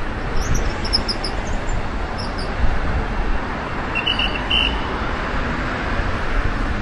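Strong gusty wind rushing and buffeting the microphone over steady road traffic noise. A bird chirps in quick short bursts in the first couple of seconds, then a lower chirp sounds a few times around the middle.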